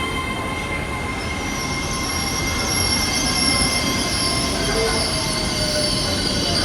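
Train moving on the rails with a steady rumble, and high wheels squealing against the track that set in about a second in and keep going.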